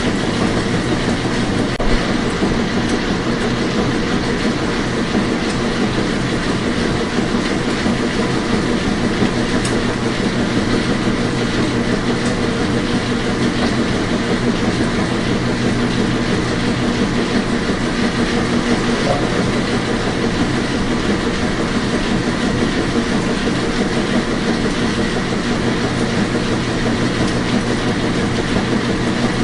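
Washing machine running steadily, a continuous whirring rumble with a faint hum and no breaks.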